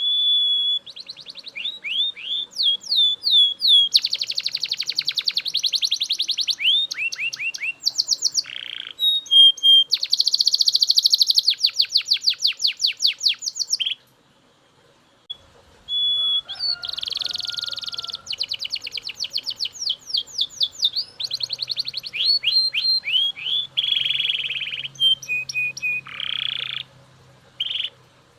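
Male Belgian canary singing a long, loud song of fast high trills and rolling repeated phrases. The song breaks off for a second or so about halfway through, then picks up again.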